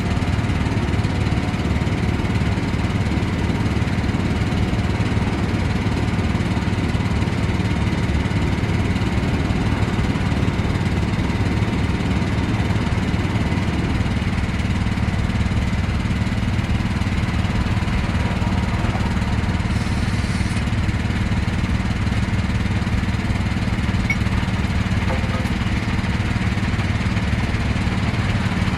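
An engine running steadily at a constant speed, with a short high hiss about twenty seconds in.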